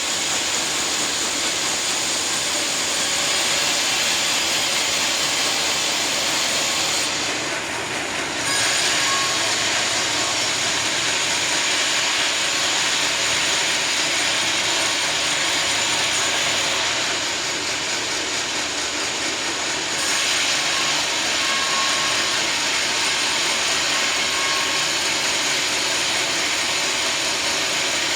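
Sawmill saw running through a teak log: a steady, loud mechanical whine and hiss of the blade cutting, whose high hiss thins out briefly twice.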